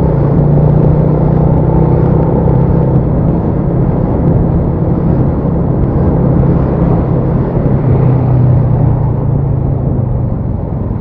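Motorcycle engine running with a steady low hum, under loud wind and road noise on the rider's microphone while riding in slow traffic.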